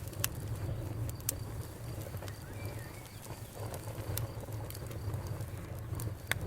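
Campfire burning, with a steady low rumble and scattered sharp crackles and pops from the wood, the loudest snaps coming about a second in and again near the end.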